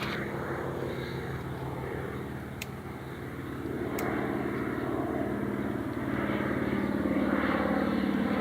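Honey bee swarm buzzing: a steady, many-voiced drone that grows somewhat louder in the last few seconds, with two faint clicks.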